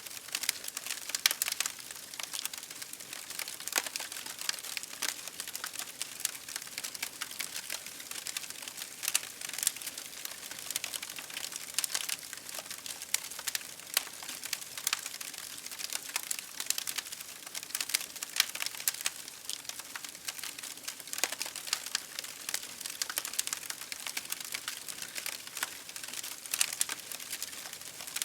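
Campfire crackling: a steady, irregular stream of sharp pops and snaps from burning wood.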